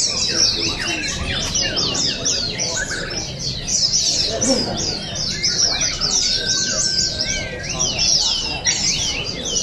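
White-eyes (pleci) singing a fast, continuous chattering song: many quick, high, falling chirps overlapping without a break, with a held whistled note about seven seconds in.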